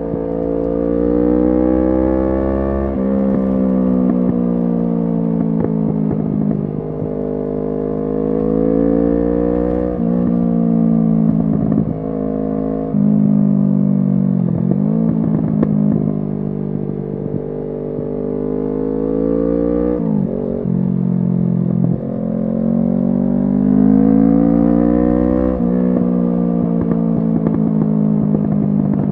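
Kawasaki Z650 parallel-twin engine through an SC Project exhaust, ridden hard: the exhaust note climbs in pitch under acceleration and drops back at each gearshift, several times over. Twice it sags lower as the throttle is rolled off, then climbs again.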